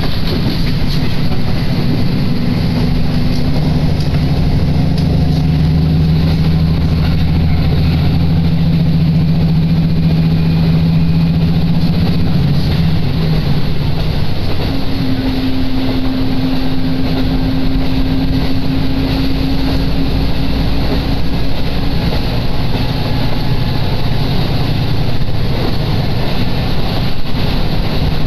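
Inside a diesel railcar on the move: a steady engine drone over the carriage's running noise, the engine's note changing about halfway through.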